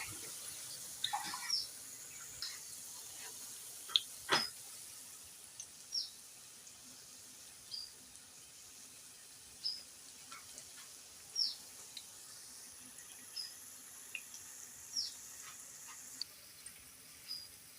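Food frying in oil in a pan: a steady sizzle with scattered pops of spattering oil, about one every second or two. There is one louder knock about four seconds in.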